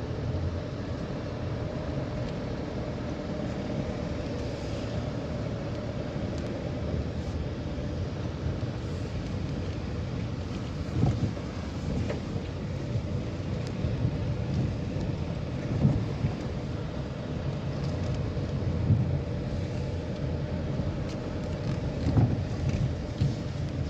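A vehicle driving on an uneven road: steady engine and tyre rumble with a constant hum, and now and then a sudden thud or knock, the loudest about halfway through and again near the end.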